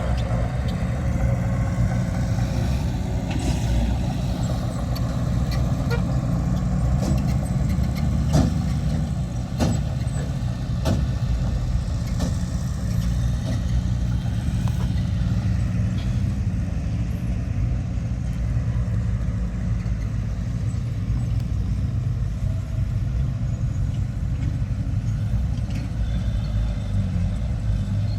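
Heavy diesel earthmoving machinery running steadily with a low engine drone, with several sharp knocks or clanks about 3 to 12 seconds in.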